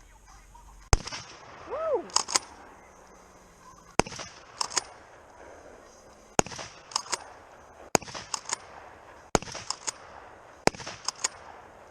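Shotgun firing buckshot six times in a row, about one and a half to two and a half seconds apart. A quick pair or trio of sharper clicks follows each shot.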